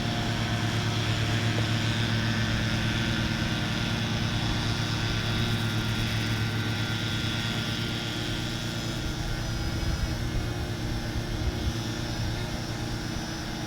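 Parrot Anafi quadcopter drone hovering: a steady, quiet propeller hum with a thin high whine from its motors, over a strong steady low hum.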